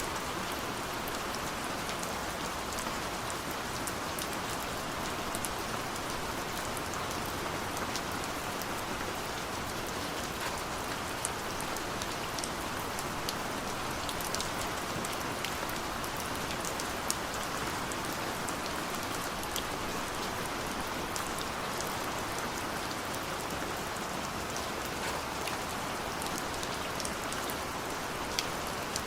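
Steady rain falling, an even hiss with many individual drops ticking sharply against a surface.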